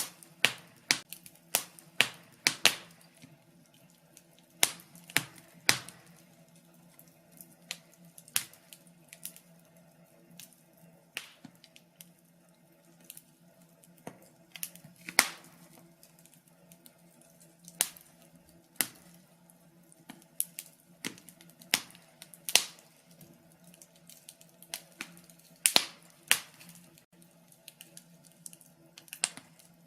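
Wood fire crackling in a fireplace: irregular sharp pops and snaps, a handful much louder than the rest, over a faint steady low hum.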